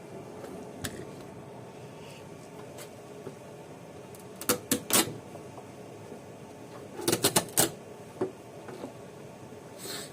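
Sharp clicks and knocks from hand work on the car's windscreen frame: a quick group of three about four and a half seconds in, a quicker group of four or five about seven seconds in, then a couple of single clicks, over a faint steady background.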